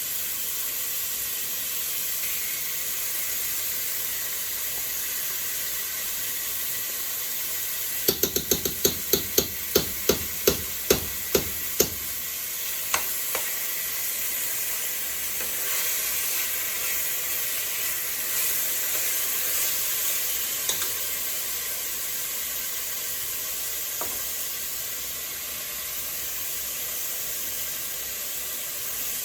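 Cubed chicken sizzling steadily in hot oil in a pot with chili and red curry paste. About eight seconds in comes a quick run of about a dozen sharp taps, with a few single clicks later.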